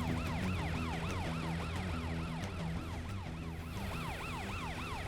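Cartoon emergency-vehicle siren wailing in quick rising-and-falling sweeps, about three a second, over low sustained background music notes.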